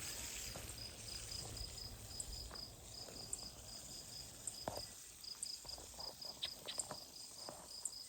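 A cricket chirping steadily, a high-pitched pulse repeating about three times a second. A few soft clicks and rustles come in the second half.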